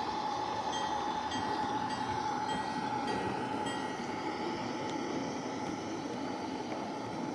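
Gauge 2 model work train running, with a steady whine. In the first half there is a run of short high squeaks, about one every half second, from its V-belts.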